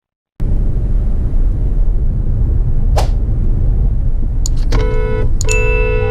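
Low road and engine rumble of a moving car, with a sharp click about three seconds in. Then a car horn: a short honk, then a long held honk near the end.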